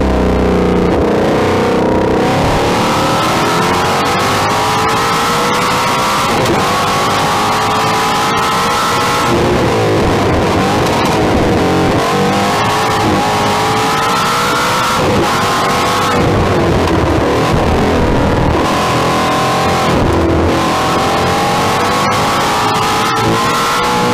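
Car engine pulling hard on a race track, its pitch climbing through the revs for a few seconds and then dropping at each shift or lift, over and over, with wind and road noise.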